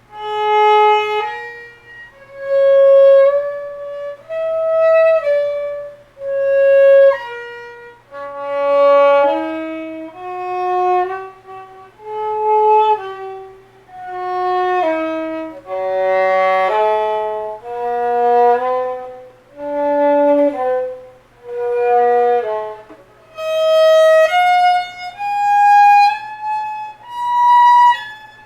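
Solo violin playing slow scales for tone practice, about one bow stroke every two seconds with two notes slurred in each. From about eight seconds to twenty-three seconds it plays double stops, two notes at once, and near the end the line climbs higher.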